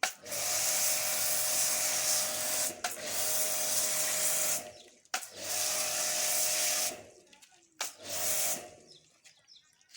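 Car-wash pressure washer spraying in three bursts, its motor running with a steady hum under a loud hiss of water; it cuts off sharply each time the trigger is let go, the last burst short.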